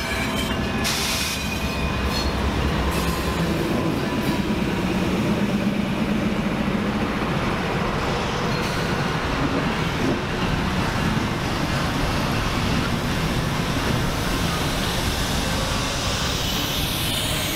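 Train cars rolling past steadily on the rails, with a brief high wheel squeal.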